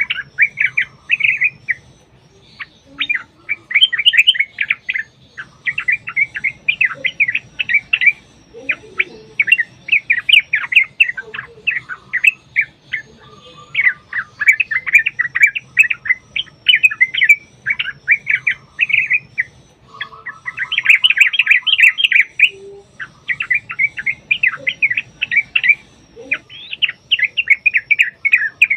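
Yellow-vented bulbuls (trucukan) calling in long runs of rapid, bubbling chatter, phrase after phrase with short breaks between.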